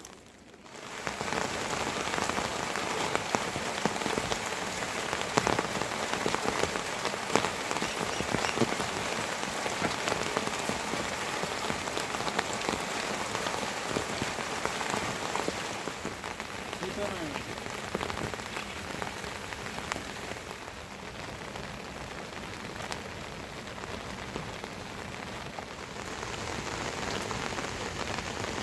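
Steady rain falling, with many separate drops ticking on surfaces through a continuous hiss. It starts abruptly about a second in.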